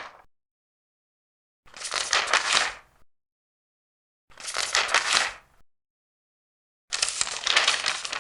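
Large paper pages being turned one at a time, each turn a papery rustle of about a second and a half. Three full turns come roughly every two and a half seconds, with silence between them.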